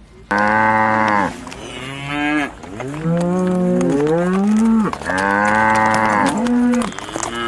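Cattle mooing: a run of long, loud moos one after another, some overlapping, each bending or falling in pitch at its end.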